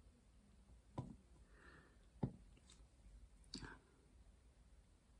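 Near silence broken by three soft clicks, about a second apart, from diamond painting: the applicator pen and resin drills tapping against the tray and canvas.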